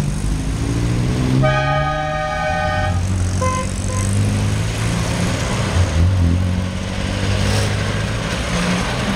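Car horn sounding for about a second and a half, then two short toots, over the low running of vehicle engines.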